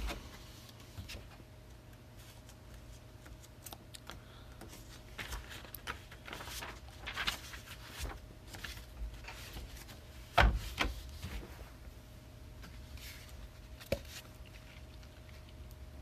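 Faint rustling and small clicks of things being handled on a table, with one louder knock about ten and a half seconds in and a lighter one near fourteen seconds, over a steady low hum.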